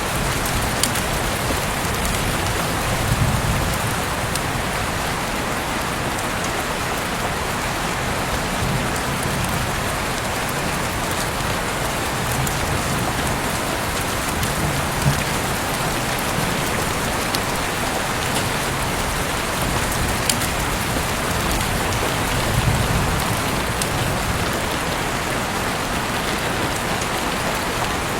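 Steady heavy rain falling and pattering on surfaces outside an open window, with the odd louder drop tick and brief swells of low rumble about 3 seconds and 23 seconds in.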